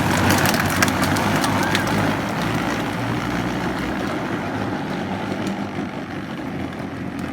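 Power Wheels Jeep Hurricane ride-on toy driving on its 12-volt electric gearbox motors, which are upgraded replacements: a steady motor whine with wheel and body rattle, several clicks in the first two seconds, growing slowly fainter.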